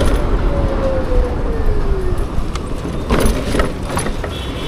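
Wind buffeting the microphone while riding a Bajaj Chetak electric scooter, with the electric motor's whine falling in pitch over about two seconds as the scooter slows. A few sharp knocks or rattles come about three seconds in.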